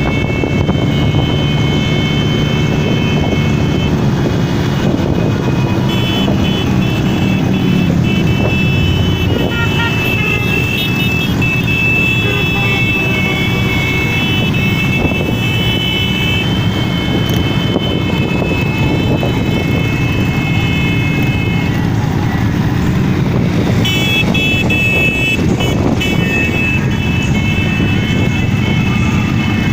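Many motorcycle engines running together in a parade, a dense steady rumble. Over it a steady high-pitched tone, horn- or alarm-like, holds for most of the time and breaks off for a couple of seconds about three quarters of the way through.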